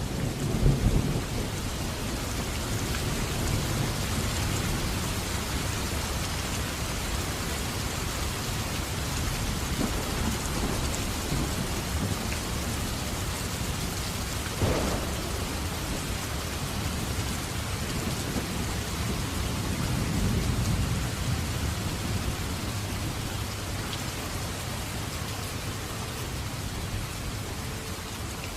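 Steady rain falling, a dense even hiss, with low rumbles of thunder swelling near the start and again about two-thirds of the way through.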